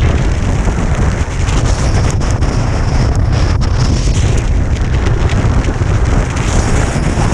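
Strong wind buffeting a GoPro's microphone: a loud, steady rumble.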